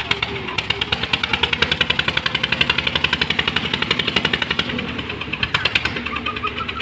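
An engine running with a fast, even knocking beat, about a dozen knocks a second, that eases off about two-thirds of the way through and briefly picks up again.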